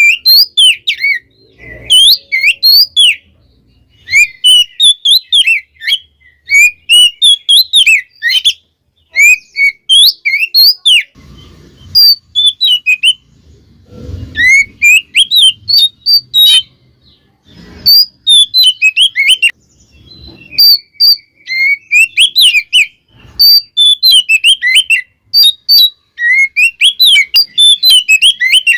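Oriental magpie-robin (kacer) singing loudly in rapid, varied bursts of whistled and chattering phrases, broken by short pauses.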